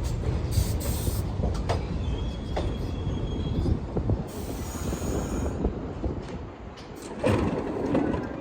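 New York subway train running through the station: rumble and clatter of steel wheels on the rails, with thin wheel squeals in the middle, dying down in the second half before a short louder stretch near the end.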